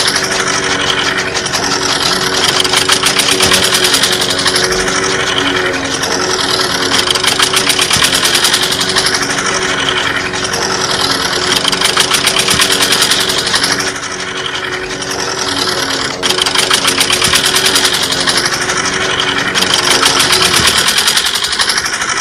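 Miniature model chaff cutter running, belt-driven from a small model diesel engine: a steady mechanical running with rapid, even ticking and a brighter, harsher edge that comes and goes every few seconds.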